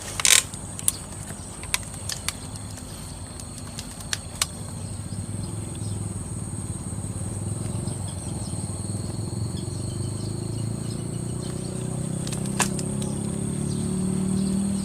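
Steady high-pitched insect drone in rice fields, over a low droning hum that grows gradually louder through the second half. A sharp crack comes just after the start, then a few faint clicks.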